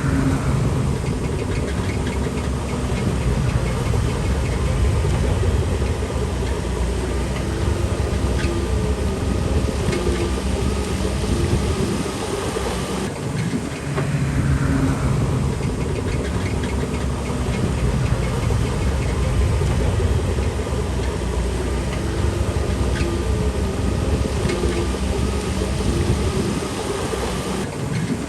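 Shantui DH17C3 Pro bulldozer's diesel engine running steadily, with its tracks clattering as it works the stone fill. A falling whine comes near the start and again about halfway, where the sound shifts.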